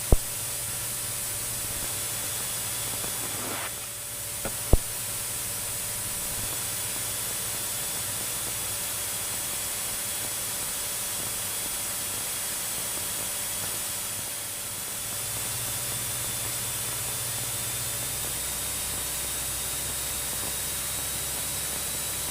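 Steady hiss of a light aircraft's cockpit audio feed, with the Cessna 172's engine faint and muffled underneath during the landing approach. Two sharp clicks just under five seconds in.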